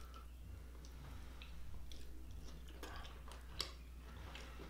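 A man chewing a mouthful of sausage and vegetable stir fry: faint, scattered wet smacks and mouth clicks over a steady low hum.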